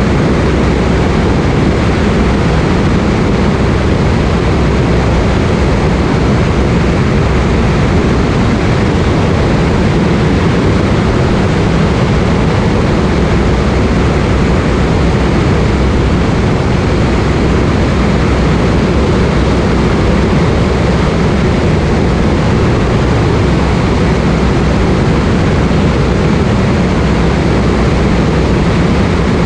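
Cessna light aircraft in cruise, heard from inside the cabin: a loud, steady drone of engine and propeller.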